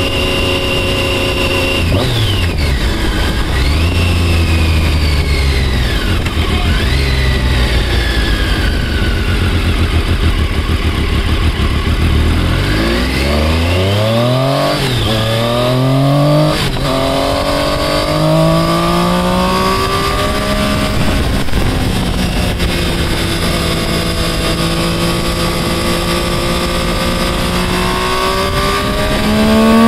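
Sport motorcycle engine under way, its pitch falling and rising with the throttle and gear changes, climbing hard in a strong acceleration about halfway through, then holding steadier before rising again near the end. Heavy wind noise on the microphone through the first half.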